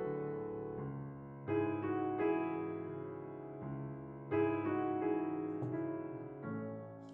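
Background music: slow, gentle piano chords, each struck and left to ring and fade.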